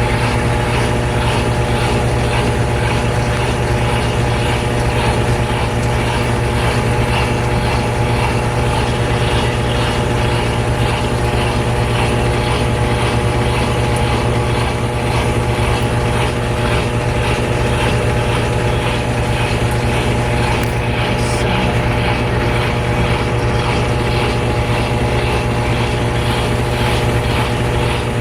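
GE Spacemaker laundry center's washer spinning steadily in its final spin: a constant motor hum with several steady whining tones above it.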